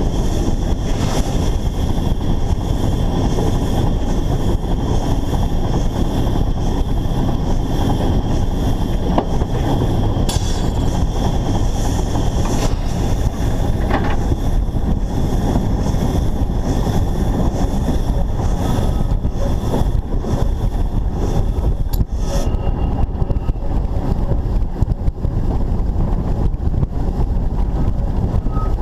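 Narrow-gauge steam locomotive of the Rügensche Bäderbahn running along the line, heard from on board the engine, with a steady, heavy wind rumble on the microphone covering most of the sound.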